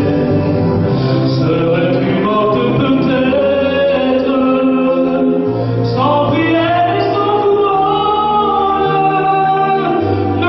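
A French chanson sung over instrumental backing, with held sung notes and a bass line stepping between notes.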